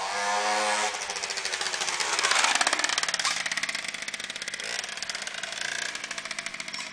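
Peugeot 103 RCX moped's two-stroke engine, fitted with a liquid-cooled Polini cylinder kit and a Dellorto carburettor, running fast with a rapid crackling firing rhythm and revving up and dropping back in pitch.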